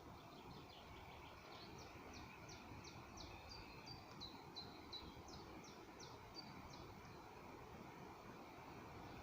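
A songbird singing faintly, a run of quick high notes, about three or four a second, starting about a second and a half in and stopping around seven seconds, over a steady low outdoor rumble.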